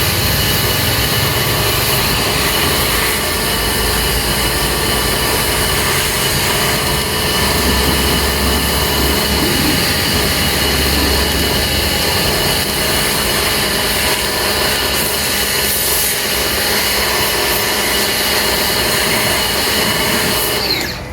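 AVA P25 110-bar high-pressure washer running steadily with its jet spraying, a constant machine whine over hissing spray noise, cutting off suddenly near the end.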